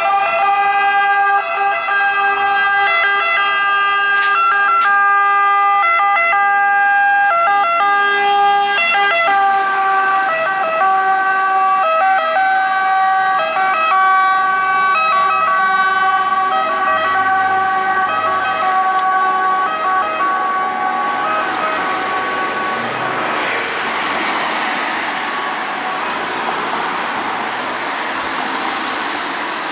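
Italian fire engine's two-tone siren sounding, its tones alternating back and forth between two pitches. After about twenty seconds the siren fades away, leaving the rush of vehicle and road noise.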